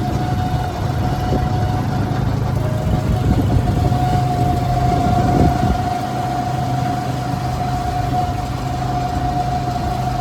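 An engine running steadily, a constant low hum with a steady higher whine over it.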